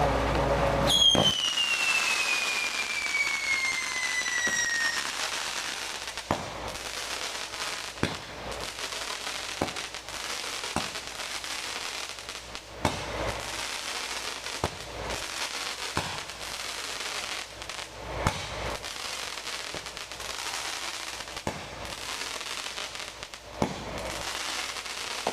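Fireworks going off: about a second in, a whistle that falls steadily in pitch for around four seconds, then scattered sharp bangs and pops every second or two over a steady hiss.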